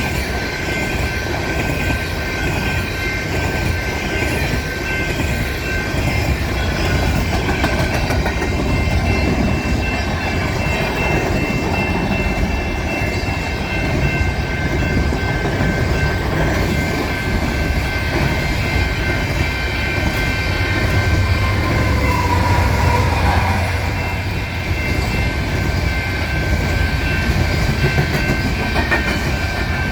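Freight cars of a long coal train rolling past steadily, wheels clattering over the rail joints, with a steady high-pitched ring over the rumble.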